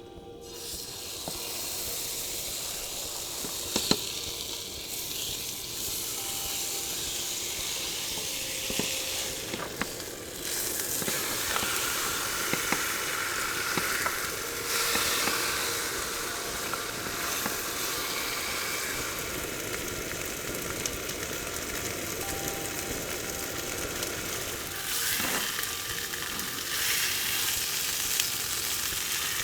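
Food sizzling as it fries in a pan: a steady hiss with scattered small pops, getting louder about ten seconds in.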